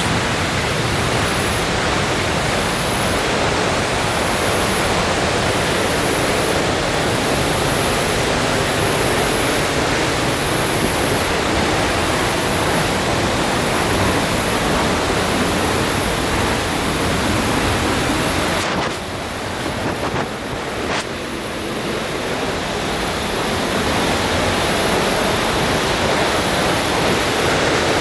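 Waterfall rushing, a loud steady wash of falling water, swollen by heavy rain; it dips briefly about two-thirds of the way through.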